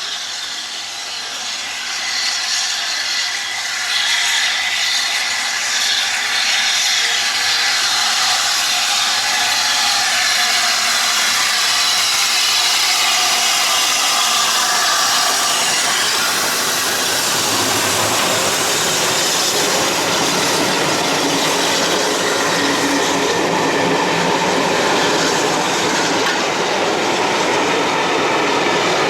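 Train hauled by the Flying Scotsman steam locomotive rolling past slowly, its wheels clattering over the rail joints. It gets louder about four seconds in, then holds steady.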